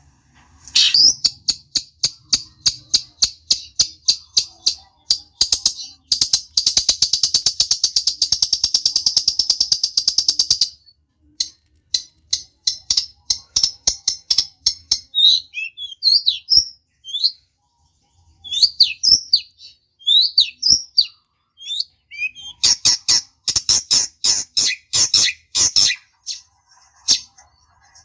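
Long-tailed shrike (cendet) giving fast, harsh chattering calls, with a dense unbroken rattle about six to ten seconds in, then scattered squeaky whistled notes, and a burst of dense chatter near the end. It is a heated 'gacor' song of the kind used as a lure to provoke rival shrikes into answering.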